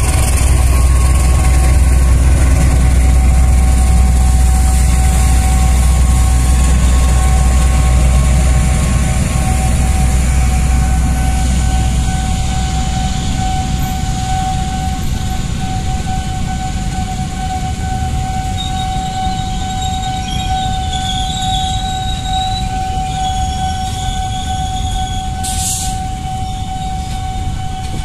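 A GE CC206 diesel-electric locomotive passes with a heavy low engine rumble that fades after about ten seconds. It is followed by the steady rolling noise of a long line of stainless-steel passenger coaches running over the rails, with a steady high whine underneath.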